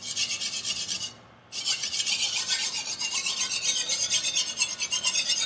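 A Martin Yan Chinese chef knife's steel edge is stroked back and forth on a whetstone in quick, rasping, evenly repeated strokes, with a short break about a second in. This is sharpening to grind away the rolled factory edge.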